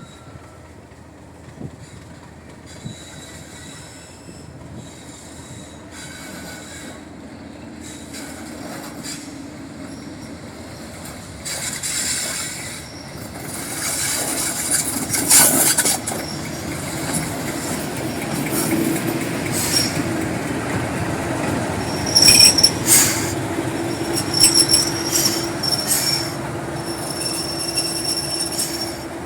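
Train wheels squealing against the rails as the train runs through a curved loop line. The running noise grows louder from about twelve seconds in, with sharp high-pitched flange squeals through the second half.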